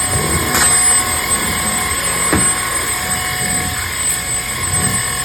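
Bissell cordless stick vacuum running steadily with a high motor whine while it picks up floor debris, with a couple of short clicks in the first half.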